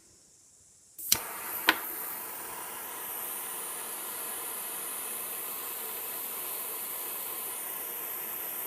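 Gas blowtorch opened with a hiss and lit by two sharp ignition clicks, then burning with a steady hiss. The flame is heating a shaft to soften the Loctite holding it.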